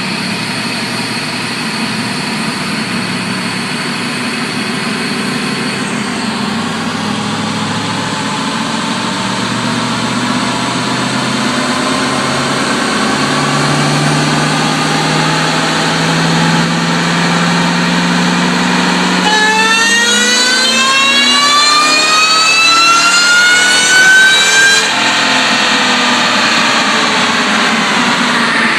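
Ford Lightning pickup's V8 revving under load on a chassis dyno, its pitch climbing slowly. Near the end of the pull a loud high whine rises steeply for several seconds, cuts off abruptly when the throttle is lifted, and the engine winds down.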